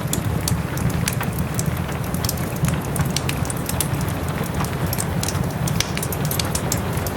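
Wood fire crackling with sharp, irregular pops over a steady bed of rain.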